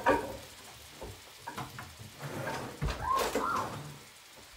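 Minced beef and vegetables frying quietly in an oiled frying pan, with a knock at the start and a dull thump near the end. About three seconds in come two short arching chirps.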